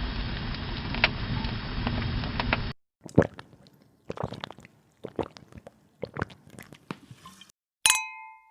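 A steady hiss for nearly three seconds, then a run of light, sharp clinks and taps, ending in a single ringing ding near the end.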